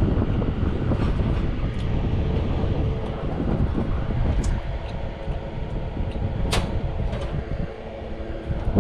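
Steady mechanical rumble with a faint, even hum, and one sharp click about six and a half seconds in.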